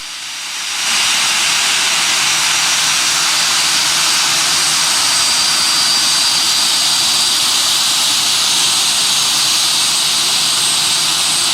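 Jet airliner engines running with a steady roar and a high turbine whine, swelling about a second in and then holding level.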